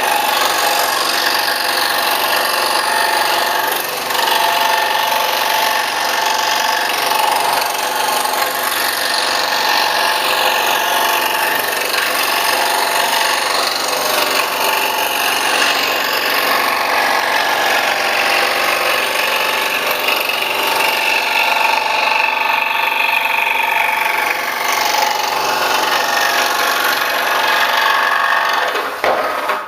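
Scroll saw running steadily and cutting through wood.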